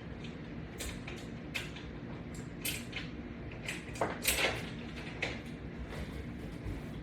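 Scattered short clicks, creaks and rubbing sounds from resistance-band exercise equipment being worked, the loudest cluster about four seconds in, over a steady low hum.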